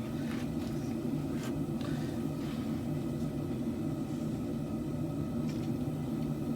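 Forge running with a steady low rumble, with a few faint light clicks.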